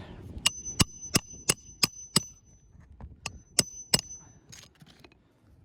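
Hammer blows on metal during roof shingle repair, each with a short metallic ring: six quick, evenly spaced strikes, a brief pause, then three more.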